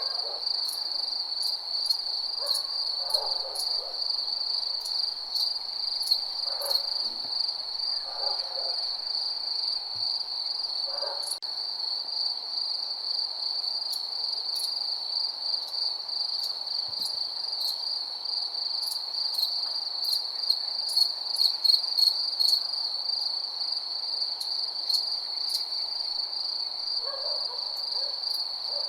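Crickets trilling steadily on one high pitch, with scattered sharp ticks above it and a few short, lower calls now and then.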